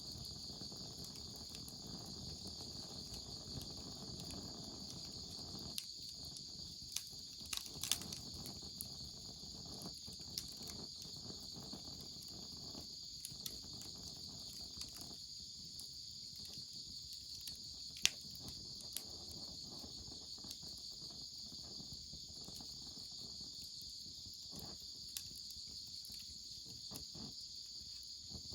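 A steady, high chorus of insects chirping, with scattered sharp pops and crackles from a wood fire. The loudest pop comes about eighteen seconds in.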